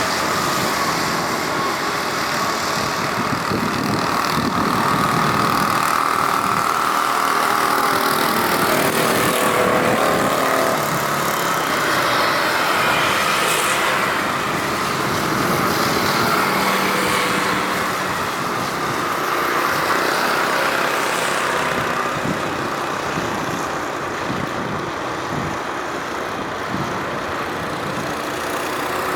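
Jet engine noise of a Boeing 777-300ER's GE90 turbofans as the airliner lands on a wet runway: a loud, steady rushing sound with a whine that slowly wavers in pitch.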